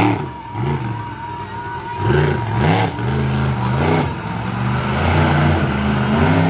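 Monster truck engine revving in a series of quick throttle blips, then held at higher revs for several seconds.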